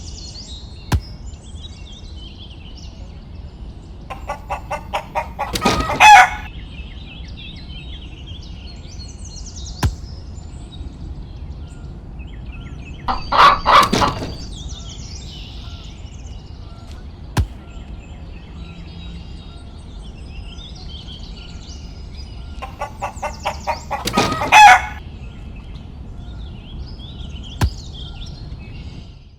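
A rooster crowing three times, about ten seconds apart, each crow a couple of seconds long. Small birds chirp faintly between the crows, and a few sharp ticks are heard.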